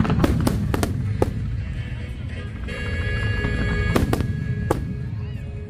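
Aerial fireworks bursting: a quick series of sharp bangs in the first second or so and two more about four seconds in, over a constant low rumble. Music with sustained notes plays from about halfway.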